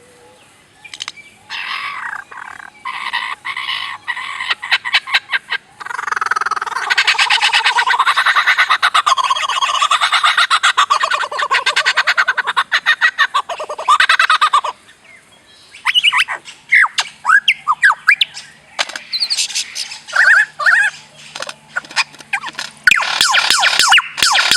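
A songbird singing loud, fast chattering phrases. Rapid runs of repeated notes and trills alternate with short whistled notes that glide up and down, with brief pauses between phrases.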